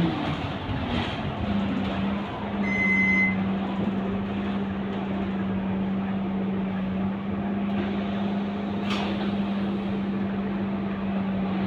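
Scania K230UB bus's diesel engine settling to a steady idle hum. A short high beep sounds about three seconds in, and a single sharp click comes near the nine-second mark.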